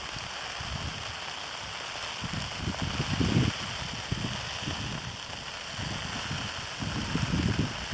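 Heavy graupel and ice pellets pouring down in a steady hiss of tiny impacts. Two low rumbling surges cut in, about two and a half seconds in and again near the end.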